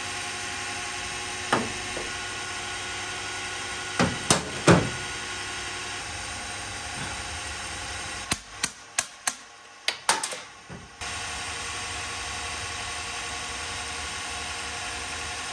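Hammer blows on stuck motorcycle parts: a few single sharp strikes, then a quick run of about six knocks near the middle. They sound over a steady humming background.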